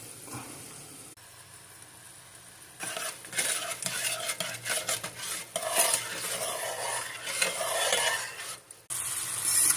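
A spoon stirring and scraping in a pot of rice, with irregular clinks against the pot, starting about three seconds in and stopping abruptly near the end.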